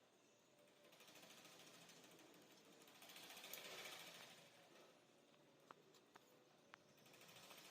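Faint crackling buzz of electric welding on a motorcycle exhaust part, swelling about halfway through, with a few sharp clicks near the end.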